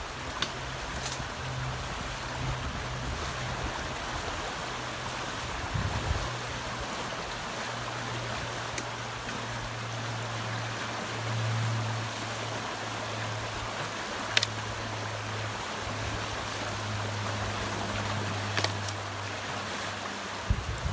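Flooded river rushing, a steady hiss of fast-flowing water, with a low steady hum underneath and a few sharp clicks scattered through.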